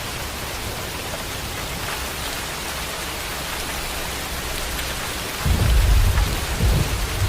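Steady heavy rain pouring, then about five and a half seconds in a loud deep rumble of thunder breaks in and keeps rolling.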